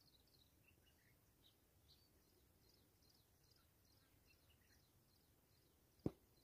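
Near silence, with faint, distant small-bird chirps scattered throughout and a single short click near the end.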